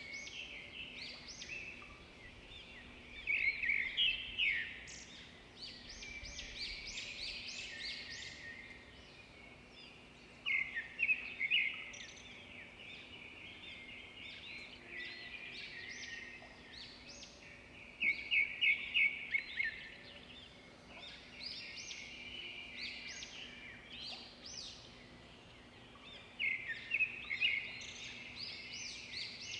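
Swiftlets calling: bursts of rapid chirping and twittering trills that come back loudest about every seven or eight seconds, with softer chirps in between.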